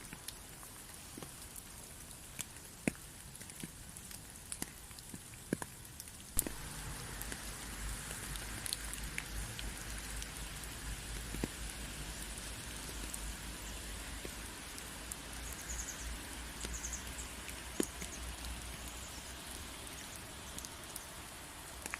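Rain falling: at first scattered drops tapping over a soft hiss, then about six seconds in it turns into a denser, steadier downpour with a low rumble underneath.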